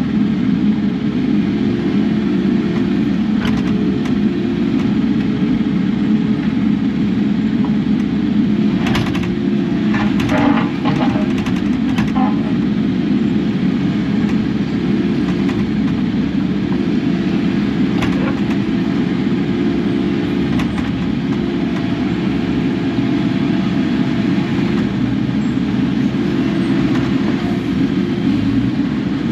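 Kubota KX080 excavator's diesel engine running steadily under work. A few bursts of clatter and scraping come about nine to twelve seconds in, and another near eighteen seconds.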